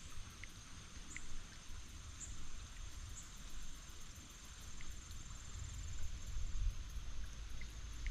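Steady, high-pitched insect trill in creekside woods, with scattered short sharp ticks and a low rumble that swells in the second half.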